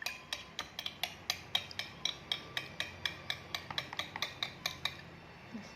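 Two metal spoons struck together in a basin of water, clinking about four times a second in an even rhythm until shortly before the end: a demonstration of sound travelling through water.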